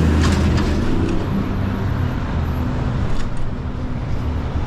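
City road traffic: a motor vehicle's engine running with a steady low hum over street noise.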